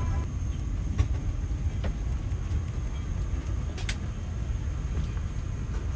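Steady low rumble of a parked airliner's cabin air and ventilation, with a few light clicks, the sharpest about four seconds in.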